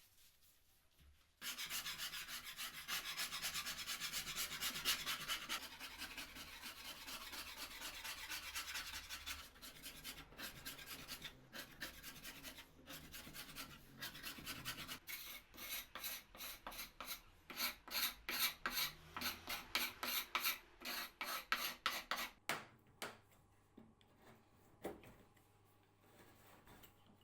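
A hand tool rubbing hard across wood: a continuous rasping rub for several seconds, then separate back-and-forth strokes about two a second that stop near the end.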